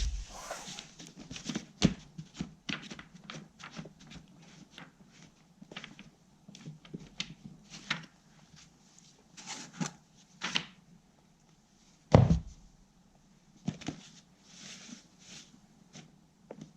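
Hand-handling noises: irregular clicks, taps and light scrapes of small hard objects, with a loud knock about twelve seconds in and another about two seconds in.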